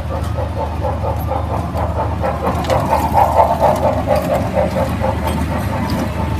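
Funfair ride machinery running: a steady low hum under a fast, even pulsing of about four beats a second, loudest around the middle.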